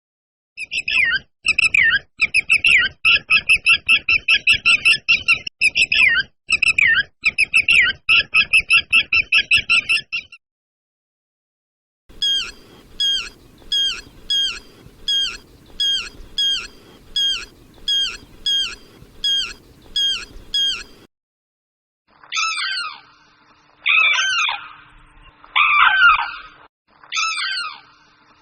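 Recorded bird calls of three different kinds in turn: a fast, dense chattering song for about ten seconds, then a steady series of short downward-sliding notes, about one and a half a second, then a few loud descending calls spaced well apart.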